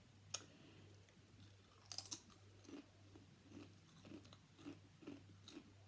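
Faint chewing of food close to the microphone, with a crunchy bite about two seconds in, then steady chewing at about two chews a second. A steady low electrical hum runs underneath.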